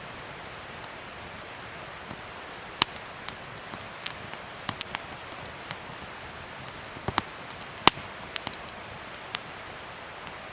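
Wood fire burning: a steady hiss with scattered sharp pops and crackles, bunched in the middle, the loudest about three-quarters of the way through.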